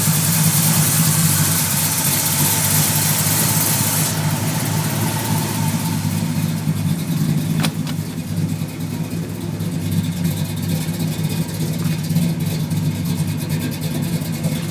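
383 stroker small-block V8 idling steadily, a low even drone through dual Flowmaster mufflers. A loud hiss lies over it for the first four seconds and cuts off suddenly; a single click about eight seconds in.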